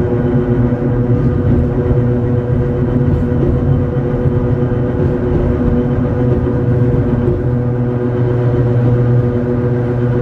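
Hakone Tozan Railway Moha 1-class electric railcar Moha 103 running uphill, heard from on board. Its traction motors and gears give a steady hum at an unchanging pitch over the rumble of the wheels on the track.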